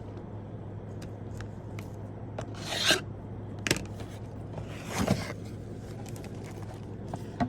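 Cardboard box and packaging being opened and handled: scraping and rubbing, loudest in two swells about three and five seconds in, with a few sharp clicks.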